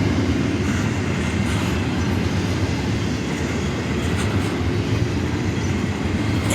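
Long train rolling past a grade crossing at slowing speed: a steady rumble of wheels on the rails with a few faint clicks.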